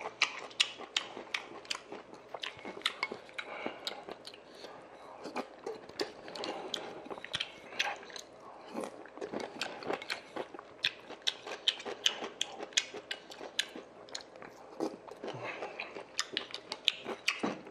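Close-up chewing and eating of sundae-gukbap (rice in pork broth with Korean blood sausage), with many sharp wet mouth clicks and smacks, several a second.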